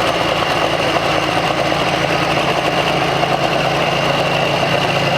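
Large engine idling steadily, an even, unchanging drone.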